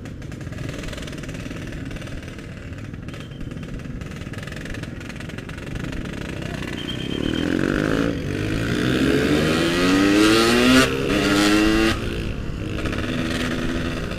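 Yamaha RX-King two-stroke single-cylinder motorcycle engine, low and rough in slow traffic. About six seconds in it is revved up, climbing in pitch in several steps. It drops back suddenly near the end.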